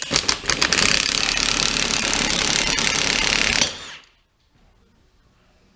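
Cordless impact wrench hammering, a few separate blows at first and then a continuous rattle for about three seconds before it stops. It is driving a press tool to push a wheel bearing into a Polaris RZR's hub knuckle, and it is struggling for power.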